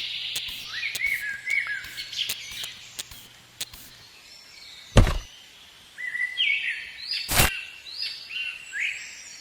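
Small birds chirping in short repeated notes, broken by two loud thumps about five and seven and a half seconds in.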